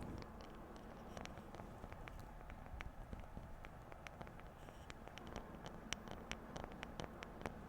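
Fingertips or nails tapping lightly on objects, a quick irregular run of small clicks that comes faster in the second half.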